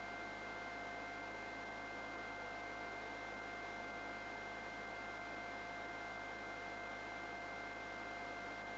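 Steady hiss with several fixed high whining tones, the cabin noise of a sheriff's helicopter heard through its intercom audio.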